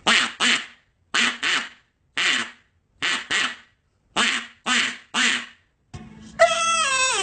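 A string of short, raspy animal calls, mostly in pairs, about a dozen in all. Near the end comes a drawn-out, wavering pitched whine.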